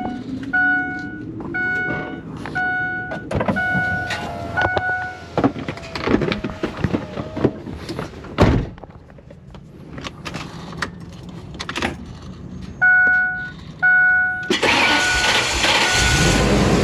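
A vehicle's electronic warning chime beeping about twice a second, broken by clunks and knocks, one louder thud in the middle. Near the end the chime gives way to a loud, steady rushing noise.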